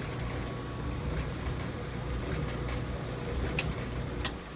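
GE GTDP300EM1WS dryer running with its drum turning on a newly fitted drive belt, a steady low rumble with no scraping. Two sharp clicks near the end.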